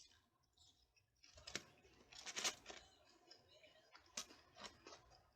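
Faint, close-up chewing and mouth clicks of someone eating a burger and fries, with a short run of crisp crunches about two and a half seconds in.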